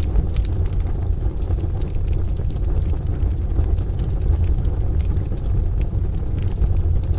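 Wood fire crackling, with scattered sharp pops and snaps over a steady deep rumble.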